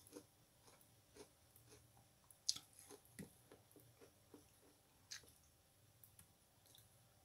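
A person chewing a piece of foam sponge: faint, irregular clicking and crackling bites, with two sharper ones about two and a half and five seconds in.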